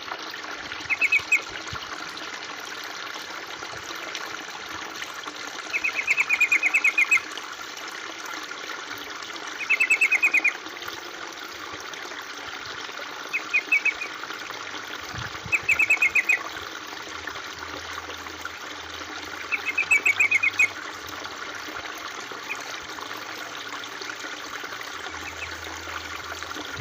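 Water trickling steadily, with six short bursts of quick repeated bird notes a few seconds apart, typical of a yellow-vented bulbul (trucukan) calling over the stream.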